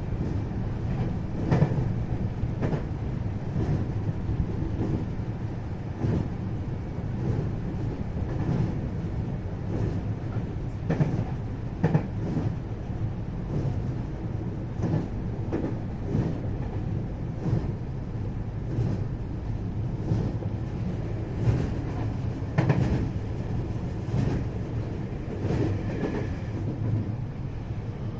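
Running noise heard inside a 521 series electric multiple unit motor car at speed: a steady low rumble of wheels on rail, broken by irregular sharp clacks of the wheels.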